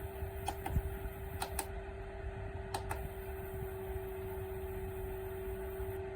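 Small desktop evaporative air cooler's fan running with a steady hum on one pitch, with a few light clicks in the first three seconds.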